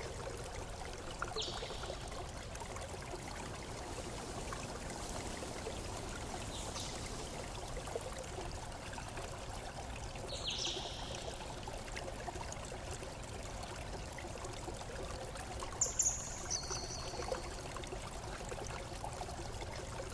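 Running water, a stream flowing and trickling steadily. A few brief high bird chirps come through it, the clearest about ten seconds in and near the end.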